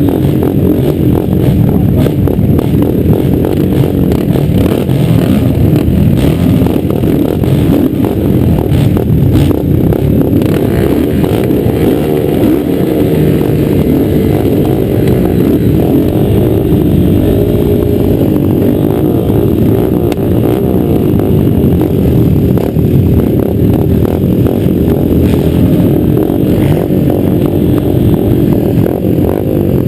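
Motocross motorcycle engines running loudly, their pitch rising and falling as the riders rev through the race.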